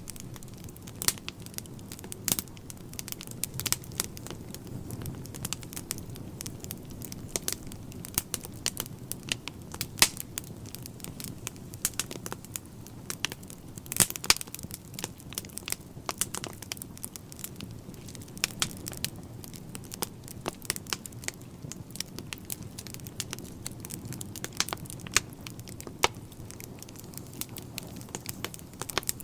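Wood fire burning in a fireplace: a low steady rumble of flames with irregular sharp crackles and pops from the burning logs, a few louder pops standing out.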